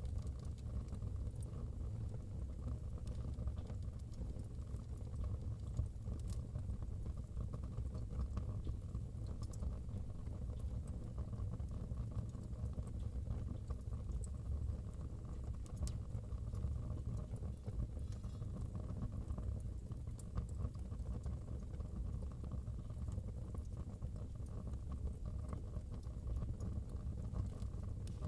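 Wood fire burning in a fireplace: a steady low rumble with scattered crackles and small pops.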